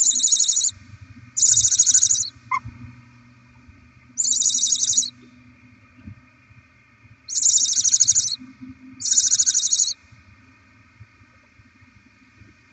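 Barn owls giving five harsh hissing calls, each a little under a second long and irregularly spaced.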